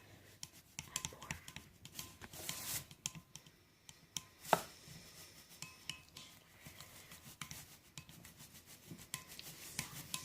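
A chopstick stirring a mixture of glue and laundry detergent in a bowl to make slime: irregular light taps and scrapes against the bowl, with one louder knock about four and a half seconds in.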